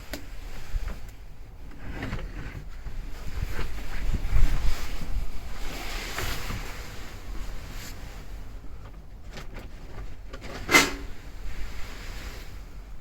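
Wind buffeting the microphone in uneven gusts, with a few faint clicks and one sharp knock about eleven seconds in.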